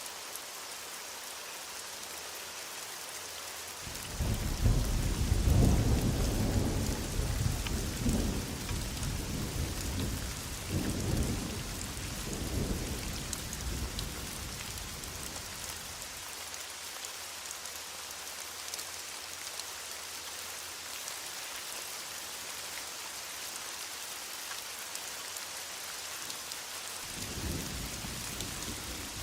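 Heavy rain falling steadily in an even hiss, with a long roll of thunder starting about four seconds in and rumbling on for some ten seconds, then another rumble beginning near the end.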